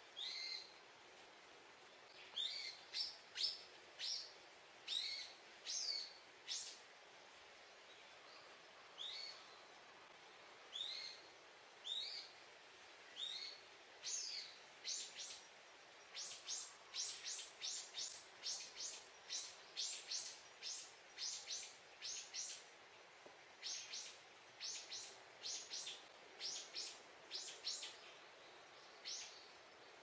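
Small birds calling with short, high chirps, some sliding up and some down in pitch: scattered single calls at first, then a fast run of many calls through the later part. A faint steady background hiss lies underneath.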